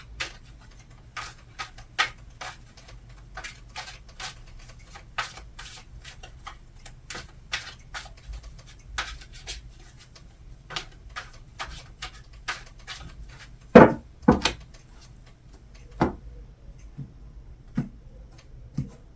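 A deck of tarot cards being shuffled by hand: irregular soft clicks and slaps of cards against each other, with two louder knocks about fourteen seconds in.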